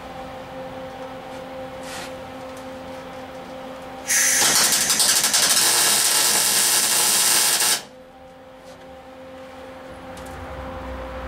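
MIG welder arc crackling for about three and a half seconds on galvanized sheet steel, starting about four seconds in and cutting off suddenly: a tack weld on the cab. A steady low hum runs underneath.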